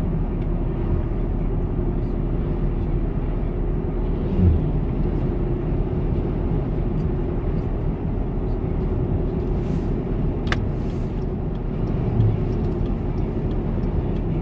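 Steady engine and road rumble inside the cab of a moving 2006 Ford F-150 pickup, with a low thump twice and a sharp click about ten seconds in.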